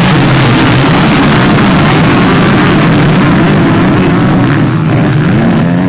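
Motocross bike engines revving hard at close range, their pitch rising and falling as the riders work the throttle and shift gears.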